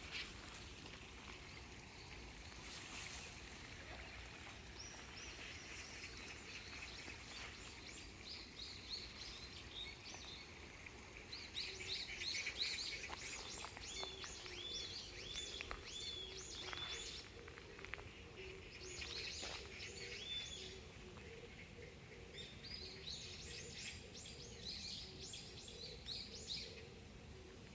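Small birds chirping and singing in quick trills of high notes, with several birds calling on and off, over a steady low background rush.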